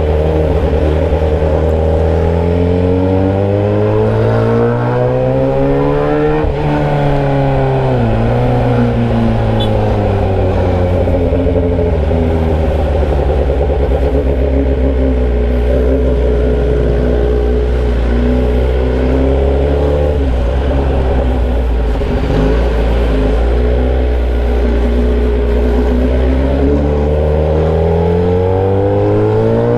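Motorcycle engine running with the muffler removed, exhausting through a bare pipe, riding under way. The revs climb for about six seconds, drop sharply at a gear change, run fairly steady through the middle, then climb again near the end.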